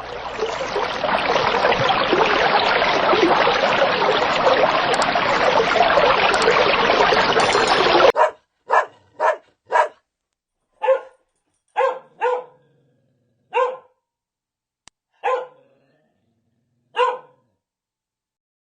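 A loud, dense, continuous din for about eight seconds, which stops suddenly, followed by a dog barking about nine times in short, separate, unevenly spaced barks.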